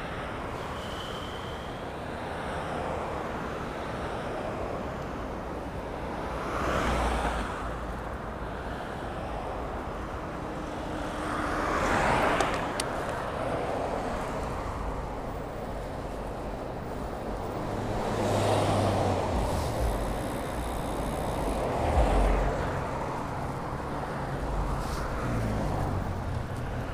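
Road traffic on a busy city street heard from a moving bicycle, with several cars passing close by, each swelling and fading over a few seconds, over steady wind and road noise.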